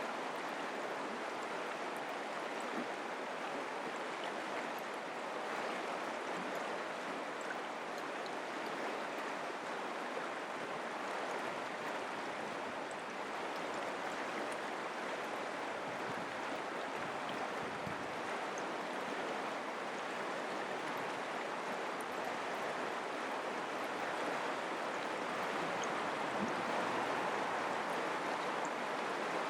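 Mountain creek water flowing over rocks: a steady rushing with faint small splashes.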